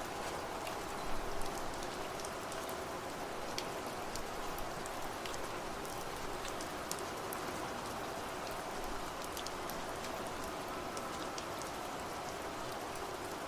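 Steady rain falling, with many separate drops ticking close by over an even hiss. Faint sustained tones of wind chimes ring underneath.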